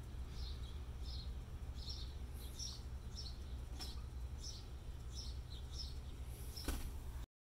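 A bird chirping, short high calls about every half second, over a steady low rumble. A sharp click comes near the end, then the sound cuts off abruptly.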